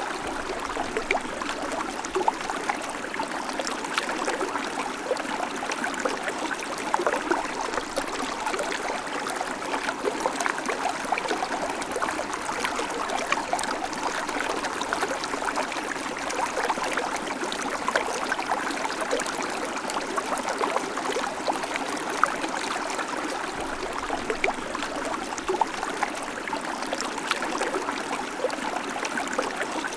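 Babbling creek: water running steadily over stones, with many small splashes and trickles.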